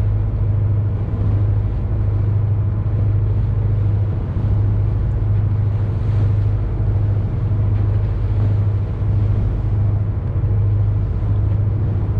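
Boat engine running with a steady, slightly pulsing low hum, over a continuous rush of noise.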